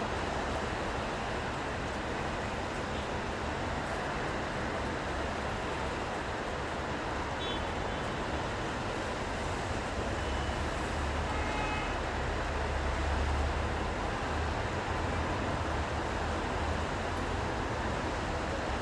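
City street traffic in the rain: a steady wash of tyre and rain noise, with a vehicle's low rumble swelling and passing a little past the middle.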